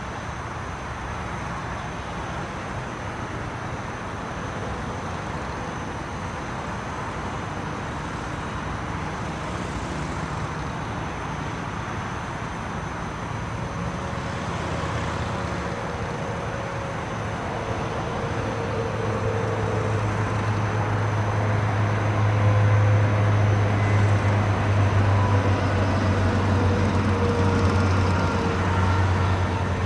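Police motorcycle engine running at low speed, with a low steady hum that grows louder over the second half as the bike comes closer.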